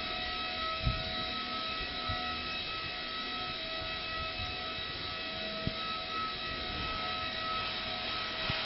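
A steady mechanical hum carrying several constant high-pitched whining tones, with a few faint knocks.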